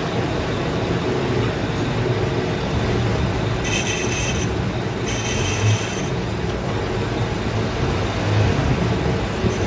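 Machine running steadily with a low hum while resurfacing a motorcycle brake hub, with two brief high squeals about four and five seconds in.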